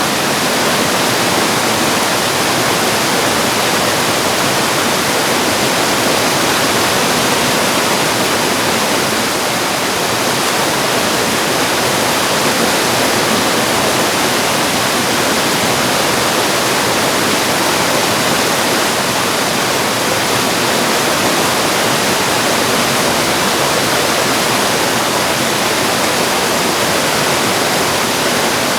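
Mountain-valley stream rushing over rocks in a steady, loud white-noise wash, with no change throughout.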